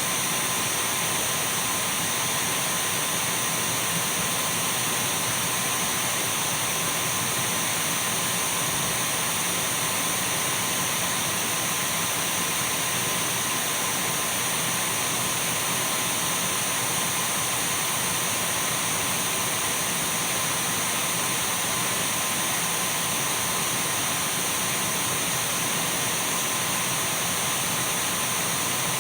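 Dyson V12 cordless stick vacuum cleaner running steadily: an even rush of air with a steady high motor whine, unchanging throughout.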